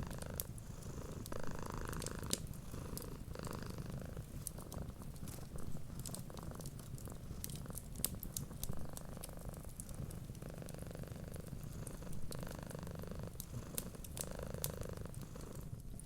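Domestic cat purring steadily, swelling and easing with each breath about every second, with small sharp crackles and pops from a wood fire scattered throughout.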